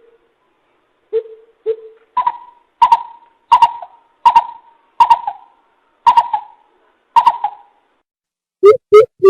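Greater coucal hooting: two deep hoots, then a slow series of seven higher hoots about 0.7 s apart, then a fast run of deep hoots starting near the end.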